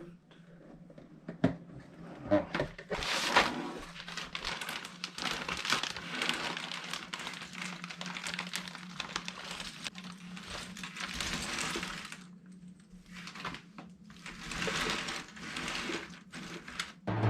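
Plastic wrapping crinkling and a cardboard jigsaw puzzle box being handled and opened, with scattered light clicks and knocks. A faint steady hum runs underneath.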